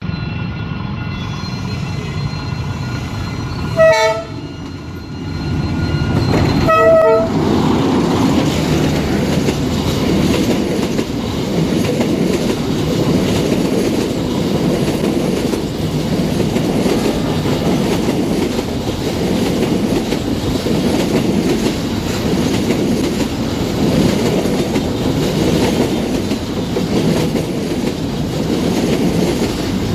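Diesel-hauled passenger express train passing close by: the locomotive sounds two short horn blasts, about 4 and 7 seconds in, and the carriages follow with a steady loud rumble and clatter of wheels over the rails.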